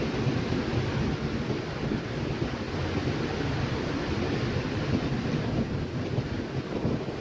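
Steady wind rushing over the microphone on an open ship deck.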